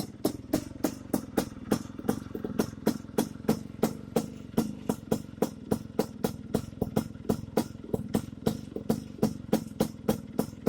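Vespa scooter's two-stroke engine running at low revs through a racing exhaust: a steady low drone with a sharp, regular popping about four times a second.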